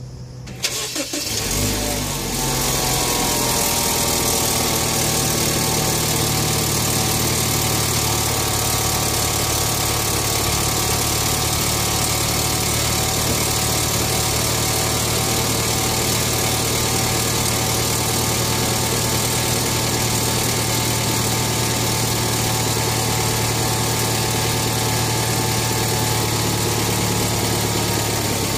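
A 2012 BMW X1's engine starting from cold: a brief crank about a second in, then it catches and runs at a steady fast cold idle with a loud rattle, which it makes on every cold start until the idle settles lower.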